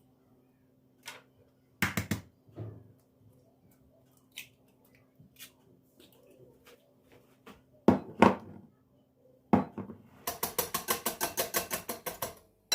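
Household kitchen handling sounds: scattered knocks and clatter of dishes and utensils being set down, then a run of quick, even strokes, about seven a second, near the end.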